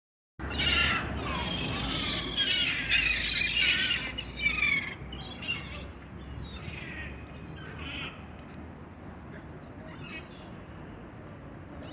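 A flock of birds calling over one another with harsh, squawking chirps, dense for the first few seconds and then thinning to scattered calls.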